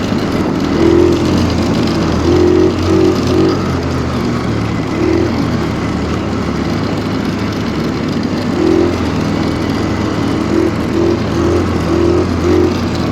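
Stels Kapitan Long snowmobile running under way through deep snow: a steady engine hum with brief swells in its note every second or so.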